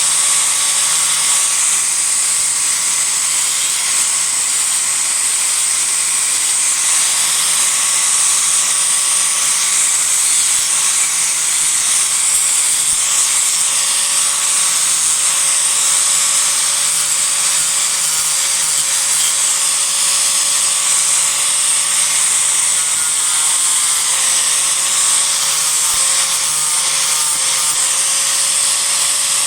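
Disc grinder running and grinding into a cedar offcut, rough-shaping the wood with a steady high whine over a gritty hiss. The whine sags slightly about three-quarters of the way through as the disc is pressed into the wood.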